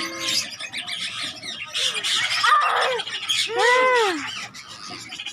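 A crowd of lovebirds and parrots chirping and squawking, with one loud, drawn-out squawk about three and a half seconds in.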